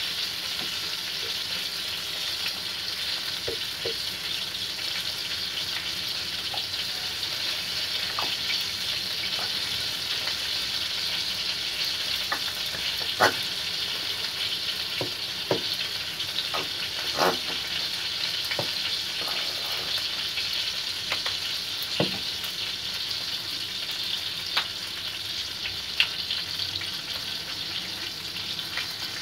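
Breaded chicken pieces deep-frying in hot oil in a wok: a steady sizzle with occasional sharp pops.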